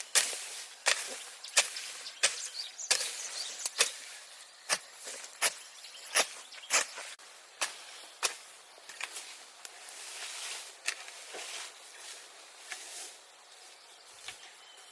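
Repeated sharp strikes of a hand tool, about one every two-thirds of a second, becoming weaker and irregular after about eight seconds.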